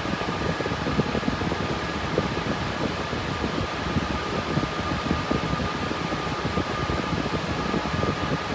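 Cooling fans of a GPU mining rig with RTX 3060 Ti cards running steadily under mining load: an even rush of air with a thin steady whine on top.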